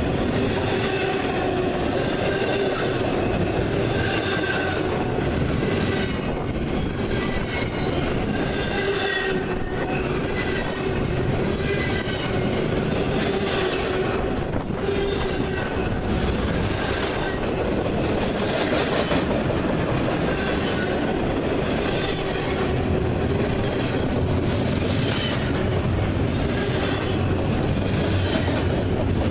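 A train rolling steadily past, its cars clattering over the rails, with high wheel squeals that come and go every couple of seconds.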